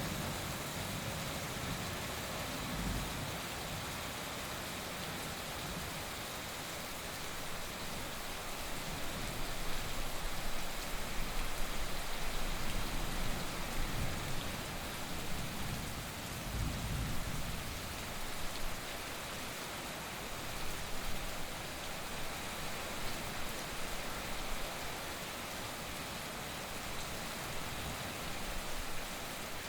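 Heavy rain falling steadily, with distant thunder rumbling low in the background, swelling loudest around the middle.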